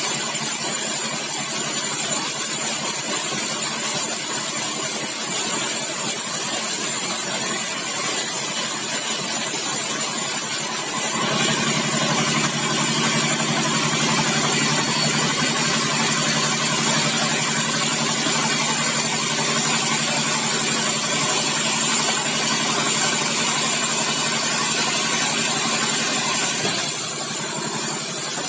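Sawmill machinery running steadily. About a third of the way in the sound grows fuller and brighter, and it eases back shortly before the end.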